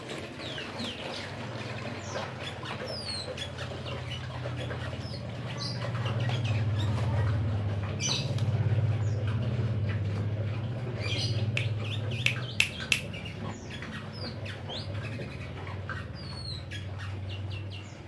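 Caged songbird giving short, high, downward-sliding chirps scattered through, over a steady low hum, with a couple of sharp clicks about twelve seconds in.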